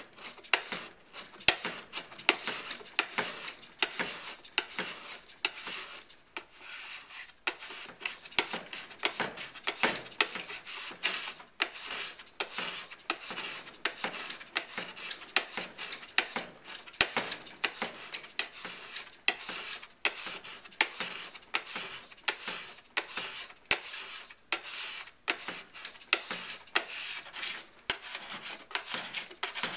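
Metal scraper shaving hardened P-Tex repair fill on a snowboard's plastic base, in quick repeated strokes of about two a second, leveling the filled gouges flush with the base.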